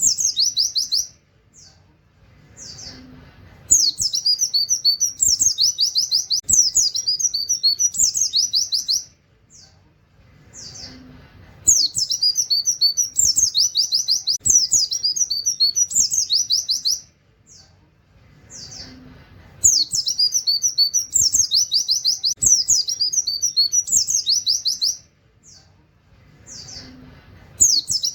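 White-eye (pleci) singing rapid-fire bursts of high, trilled 'tembakan' song in a canary-like style. Phrases about five seconds long alternate with short gaps that hold a few single chirps, and the same pattern comes round about every eight seconds.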